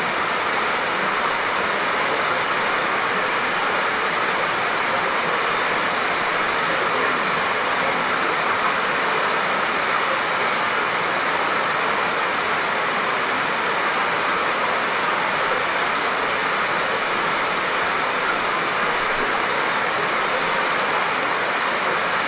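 Light, soft rain falling steadily: an even hiss with no single drops, drips or thunder standing out.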